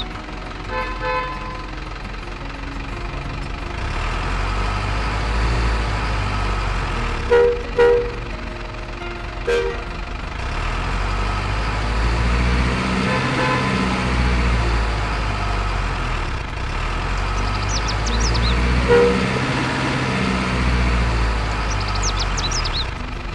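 A heavy truck's engine running with a steady low rumble. Short horn blasts sound twice in quick succession about a third of the way in, again soon after, and once more near the end.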